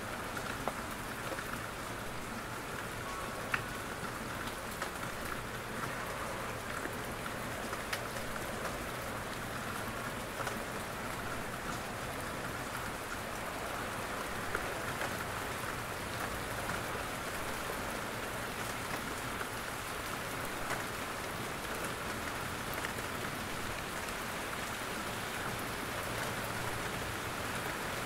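Steady rain in a forest, with scattered louder drops ticking down from the trees.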